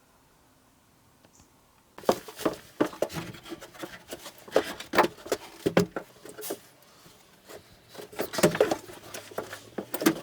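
Irregular knocking and clattering of wood being worked, starting suddenly about two seconds in after near silence.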